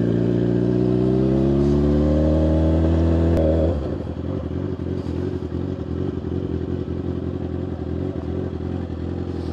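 Suzuki GSX-R750 inline-four motorcycle engine, its pitch rising steadily for about three and a half seconds, then dropping suddenly to a rough, pulsing idle.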